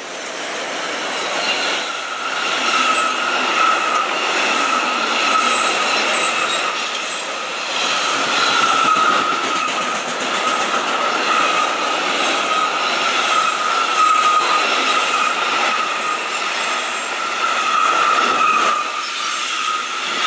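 An intermodal freight train of container wagons passes close by. Its wheels give a steady high squeal over the continuous rolling noise of the wagons.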